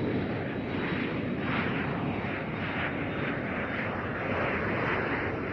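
Steady rushing drone of an airplane's engines in flight, with a faint regular pulsing.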